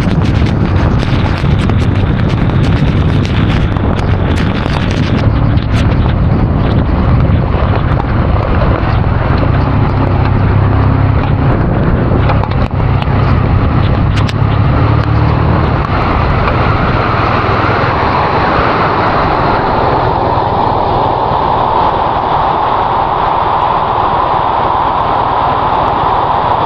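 Motorcycle on the move in the rain: steady wind rush and road noise with a low engine hum, and a scatter of sharp ticks in the first five seconds or so from hail striking the rider or camera. About two-thirds through the low hum fades and the rushing sound sits higher.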